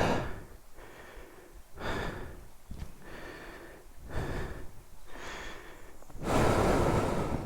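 A rider's heavy breathing close to a helmet microphone, a breath about every second, with a longer, louder exhale near the end. The breathing comes from exertion.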